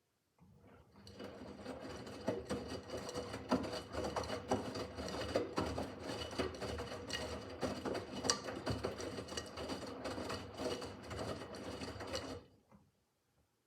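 Miele W5801 front-loading washing machine turning its drum during the wash phase: a steady motor hum with laundry tumbling and clattering inside. It starts about half a second in and stops near the end, the usual turn-and-pause rhythm of a wash cycle.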